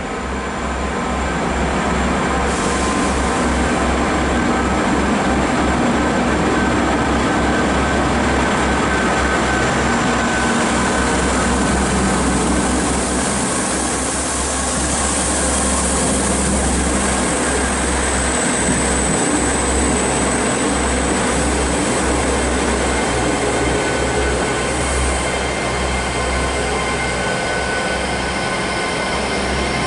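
Diesel passenger train moving through the station, with a steady engine drone and a high, thin wheel squeal that comes in about halfway through.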